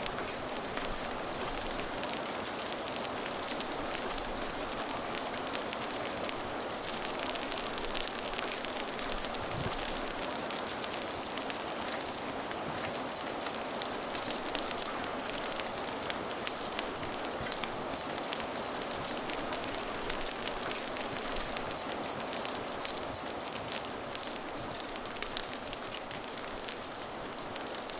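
Steady rain falling, with a log fire crackling in sharp little pops over it.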